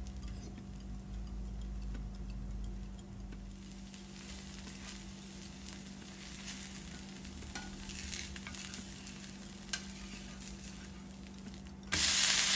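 Dosa frying on a dosa pan: faint sizzling and crackling while a steel spatula works over the onion-topped batter. Near the end a sudden loud sizzle as the dosa is flipped onto the hot oiled pan, onion side down.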